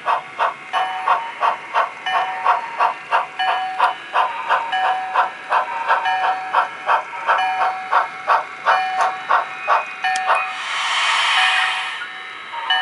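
HO scale model steam locomotive's sound decoder playing steady chuffing, about three chuffs a second, through a small speaker. The chuffing stops about ten seconds in and gives way to a loud hiss of steam lasting a second or two as the locomotive comes to a stop.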